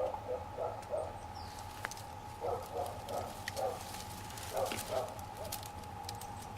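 An animal calling in the background: short calls in groups of three or four, the groups about two seconds apart. In the second half there are faint sharp crackling ticks.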